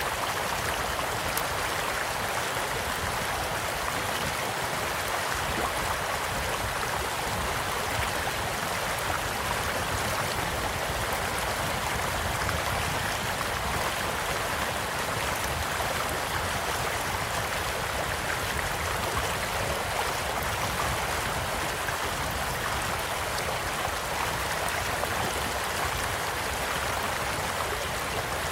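Small stream flowing steadily, an even rush of running water, with a few faint scattered crackles from a campfire.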